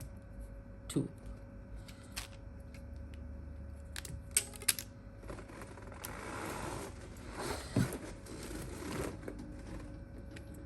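Rubber bands being stretched and snapped around a smartphone to clamp its freshly glued replacement screen: a few sharp clicks and snaps, then several seconds of rustling handling.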